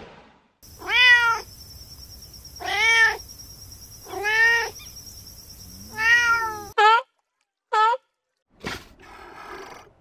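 Domestic cat meowing: four drawn-out meows, each rising and falling in pitch, about one every one and a half seconds. After about seven seconds, two short, clipped animal calls follow.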